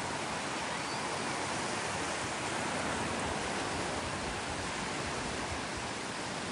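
Sea surf breaking on a beach, a steady rushing wash of waves with no single break standing out.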